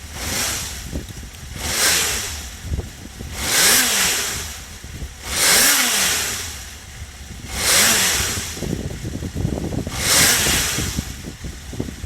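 Honda CBX400F's air-cooled inline-four engine being blipped six times, each rev rising and dropping back to idle, through its stock exhaust. It revs up cleanly, which the seller takes as a sign of an engine in very good condition.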